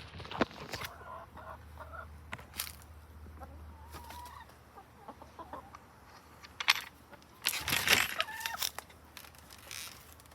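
Chickens clucking in short, scattered calls, with a few brief rustling or knocking noises; the loudest burst comes about three-quarters of the way in.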